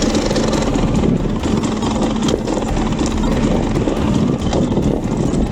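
Dirt bike engine running steadily under way, a loud, continuous choppy engine sound.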